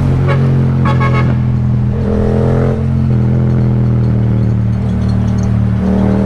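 Yamaha MT-07's 689 cc parallel-twin engine with an Akrapovic exhaust, running at a steady cruise with little change in revs.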